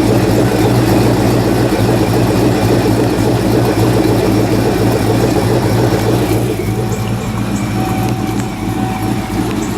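Supercharged Ford 2-valve V8 in a Mustang with aftermarket cams, idling steadily on E85 shortly after a cold start. About six and a half seconds in it gets slightly quieter, and a faint steady whine comes in.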